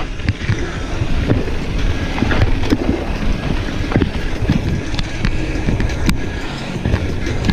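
Mountain bike speeding down a rough dirt trail: wind rushing over the microphone, with tyre noise on dirt and rock and frequent knocks and rattles from the bike over bumps.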